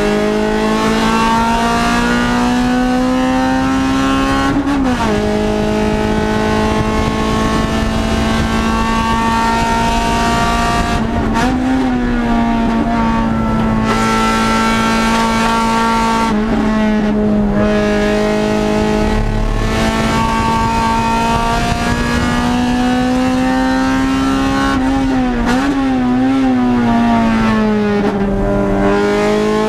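Race car engine at full throttle, heard from inside its stripped-out cabin. Its pitch climbs slowly through each stretch and drops sharply about five times as the driver shifts gears and lifts for corners.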